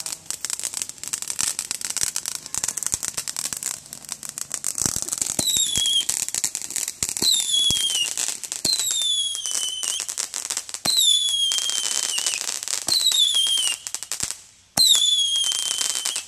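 Consumer fireworks going off: dense crackling throughout, joined from about five seconds in by a run of about seven shrill whistles, each falling in pitch over roughly a second.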